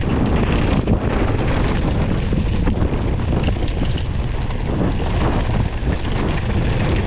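Wind rushing over the microphone and tyres rolling fast on a dirt trail, with the mountain bike rattling over small bumps.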